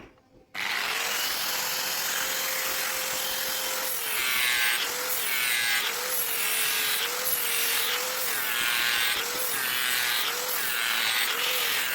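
Electric grinder switching on and grinding the steel of a sickle blade in repeated strokes, roughly one stroke every 0.7 s. The motor's pitch dips each time the blade is pressed against it.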